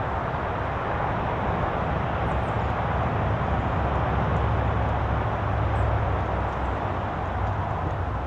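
Steady outdoor rumbling noise, swelling a little through the middle, with a few faint high chirps on top.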